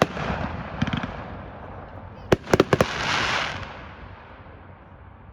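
Fireworks going off: a short cluster of pops about a second in, then several sharp bangs about two and a half seconds in, followed by a hissing rush that fades away.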